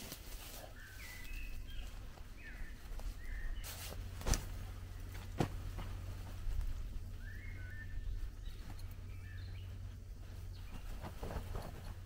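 Small birds chirping in short calls, with two sharp clicks about four and five and a half seconds in and some rustling near the end, over a steady low rumble.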